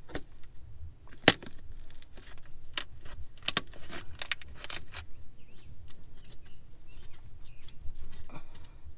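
Scattered clicks and knocks from handling and probing a boat's wooden deck under pulled-up carpet, with one sharp knock about a second in and a quick run of clicks a few seconds in.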